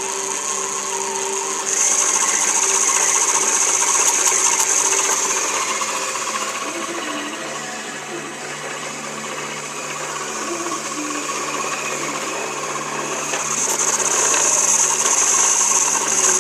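Sewing machine running steadily as it stitches the quilt, louder for a few seconds near the start and again near the end.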